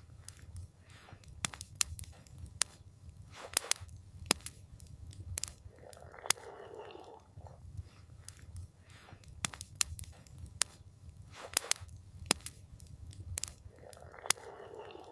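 Campfire crackling: irregular sharp pops and snaps from burning wood over a steady low rumble of the fire. A soft rush of sound swells briefly about six seconds in and again near the end.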